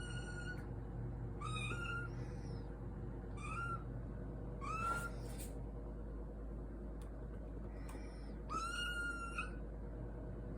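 A kitten mewing: five short high-pitched mews, each rising slightly and then holding briefly, with a pause of about two to three seconds before the last one.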